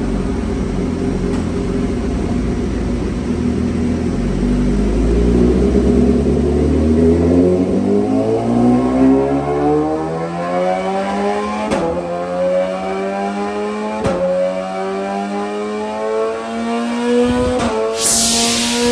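Inline-four superbike engine running under load on a chassis dyno, its note climbing steadily in pitch through a long pull. Two sharp cracks come in the middle of the pull and a short burst of hiss near the end.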